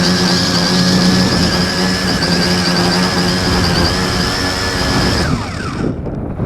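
X101 quadcopter's electric motors and propellers spinning at a steady speed, close up, with a high whine over a lower hum; about five seconds in they wind down with falling pitch and stop, leaving wind buffeting the microphone.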